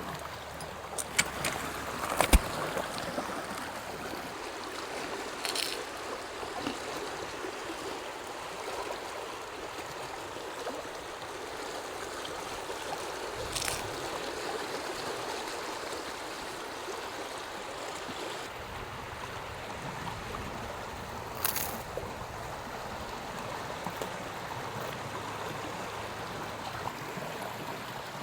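Glacial meltwater river flowing steadily, with a few brief sharp clicks scattered through.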